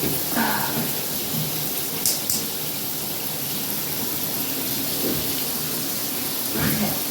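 Water spraying steadily from a newly installed shower head, with two light clicks about two seconds in.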